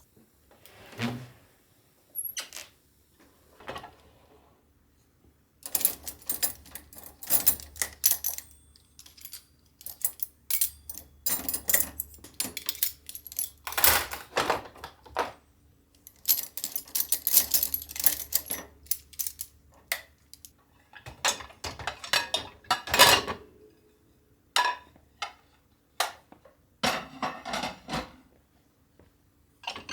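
Small objects being handled by hand: irregular clusters of clicks, knocks and clinks with brief pauses between them, like dishes and utensils being moved about.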